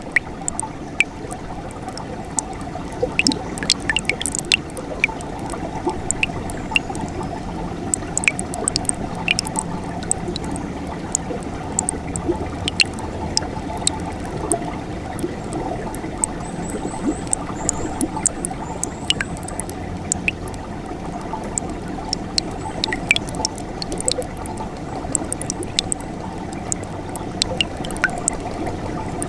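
Winter mountain stream flowing steadily, with many small sharp splashes and drips over the rush of the water.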